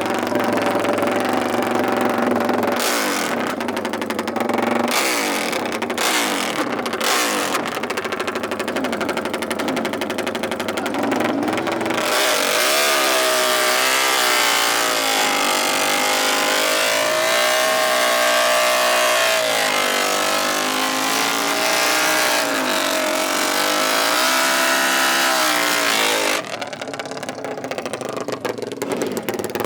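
Off-road race engines, dirt bike or ATV, running and revving. From about twelve seconds in, one engine winds up and down in pitch again and again under a steady hiss, and the sound drops back a little near the end.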